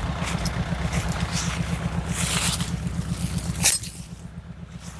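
An engine idling with an even low throb, with a brief scraping noise and then one sharp, loud crack about three and a half seconds in, after which the engine sound drops away.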